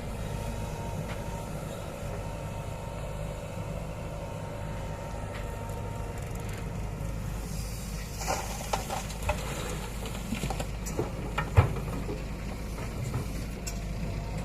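Heavy diesel engine running steadily with a low rumble. From about eight seconds in, a string of sharp knocks and clanks cuts through, the loudest near the end.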